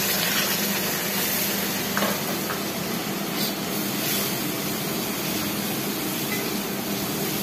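Onions, green chillies and freshly added ginger-garlic paste sizzling steadily in oil in an aluminium kadai, stirred with a wooden spatula, with a few light clicks of the spatula against the pan.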